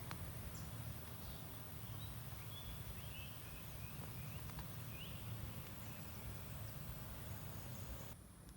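Outdoor natural ambience: a steady high insect hiss with several short bird chirps in the first half, over a low steady rumble.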